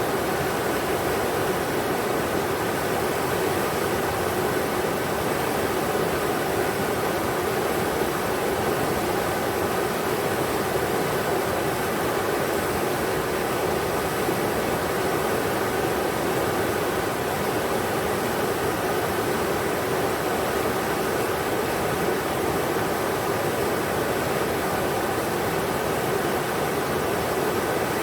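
River water rushing steadily over rocks in a continuous, even roar.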